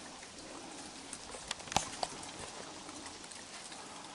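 Heavy rain falling steadily, with a few light sharp taps about halfway through.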